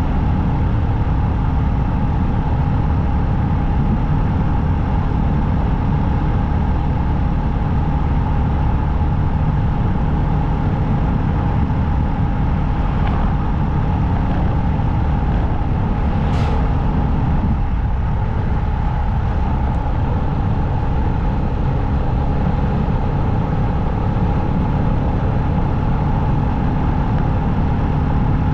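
Motorcycle riding steadily at speed: constant engine drone with road noise. A brief sharp hiss about sixteen seconds in.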